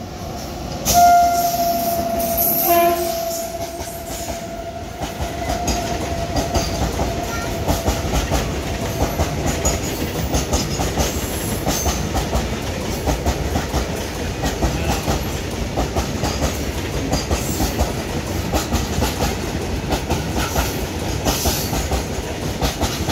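Electric locomotive horn sounds about a second in, with a short second note just before three seconds. Then a long goods train of covered freight wagons rolls past, its wheels clattering steadily over the rail joints.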